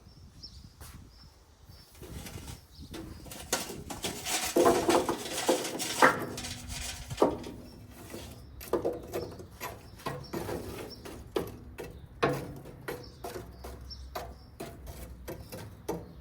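Irregular clicks, taps and knocks of food prep and utensils being handled, with a denser noisy stretch about four to six seconds in.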